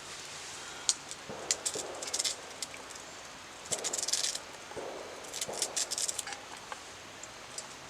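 A knife cutting an onion held in the hand, in short irregular bursts of cutting and rustling with a few sharp clicks.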